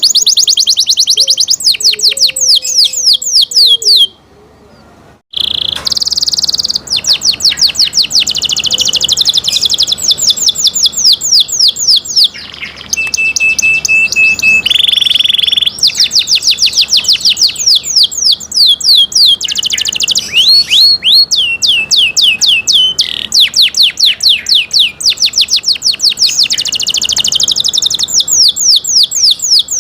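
Canary singing: fast trills of short falling whistles that change pattern several times, with a long held whistle and a buzzy note near the middle. The song breaks off for about a second some four seconds in.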